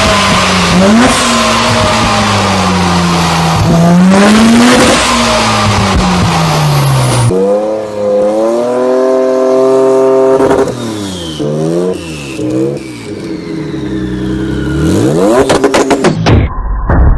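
Sports car engines revving hard in a run of separate clips. For the first seven seconds an engine rises and falls in pitch under heavy noise. After a cut it revs up and down in quick blips, and a further cut near the end brings a pulsing sound.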